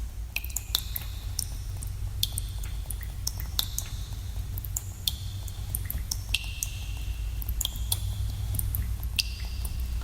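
Water drops falling into pools in a cave, each a sharp plink with a short ringing note, coming irregularly a few times a second over a steady low rumble.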